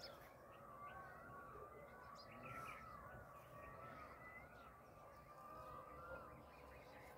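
Birds calling faintly, many short arching chirps in quick succession over a low outdoor background hiss.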